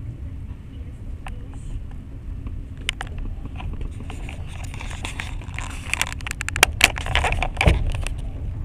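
Passenger train running, a steady low rumble of wheels on the rails heard from inside the carriage. From about three seconds in come scattered sharp clicks and rattles, which crowd together and are loudest near the end.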